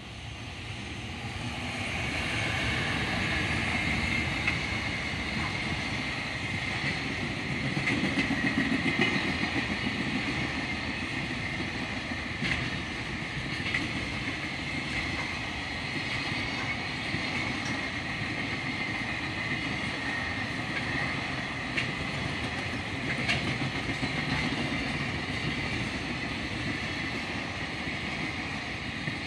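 Freight train hauled by a JR Freight EF210 electric locomotive passing: it builds up over the first few seconds as the locomotive comes by, then a long string of container wagons rolls past. The wheels rumble steadily on the rails, with a few sharp clicks and a steady high whine above the rumble.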